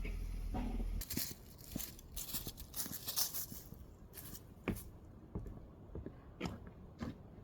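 A low steady hum cuts off about a second in. Irregular rustling and crinkling follows, with scattered sharp clicks, like something being handled.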